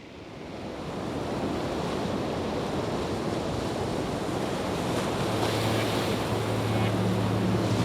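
Ocean surf: an even rushing wash of waves that swells in over the first second and then holds steady. A low steady hum joins about five seconds in.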